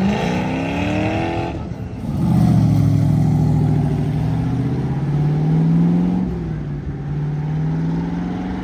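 Car engine accelerating hard away from a standstill: the pitch climbs, drops at a gear change about two seconds in, climbs again for several seconds, then falls back at a second shift near six seconds.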